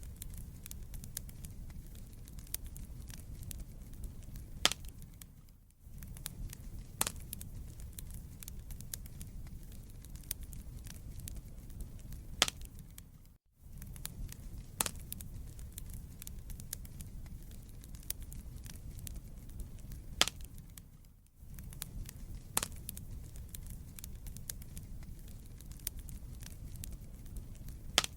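Wood fire burning in a fireplace: a steady low rumble of flames with dense small crackles and a louder pop about every eight seconds. The sound dips out briefly three times, at even spacing.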